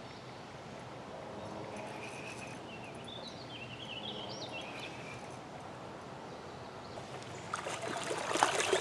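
Steady outdoor river-bank ambience with a bird chirping. From about 7.5 s in, water splashing and sharp clicks grow louder as a hooked catfish is brought in to the bank.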